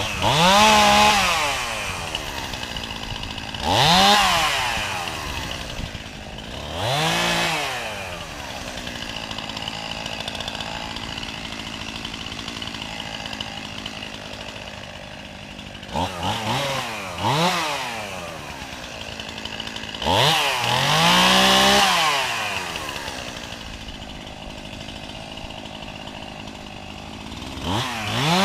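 Chainsaw engine idling and repeatedly revved up to high speed for a second or two before dropping back to idle, about six times, with one longer high-speed run about two-thirds of the way through.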